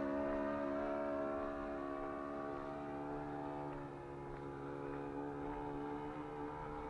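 ASP 61 FS four-stroke glow engine of a model airplane running steadily. Its note sinks slightly and fades a little about halfway through.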